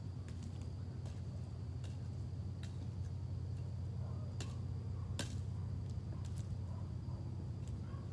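Campfire crackling, with sharp irregular pops and snaps, over a steady low rumble and a constant high insect drone.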